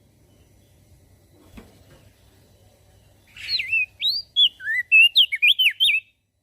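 Crested white-eye (opior jambul) singing: a quick run of clear whistled notes swooping up and down, starting about halfway in after a few seconds of faint low hum.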